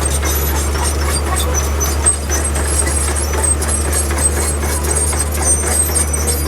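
Diesel engine of heavy earthmoving machinery running steadily under load, with a deep constant drone and faint high squeaks now and then.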